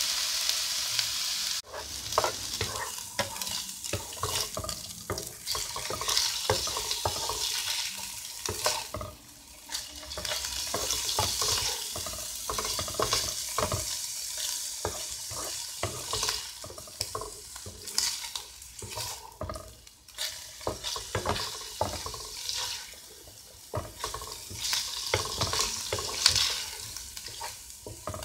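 Diced boiled chicken breast sizzling in hot vegetable oil in a non-stick frying pan, stirred and scraped about with a wooden spatula. A loud steady sizzle for the first second or so drops off, and from then on a quieter fizz runs under repeated scraping strokes.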